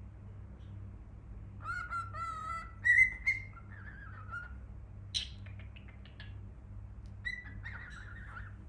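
Cockatiel whistling and chirping: a warbling whistled phrase, then a quick run of short chirps, then another warbling whistle near the end.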